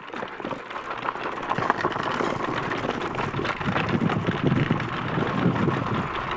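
Electric scooter rolling over a rough, bumpy mountain track: a steady crackle of tyres on gravel with many small clicks and rattles.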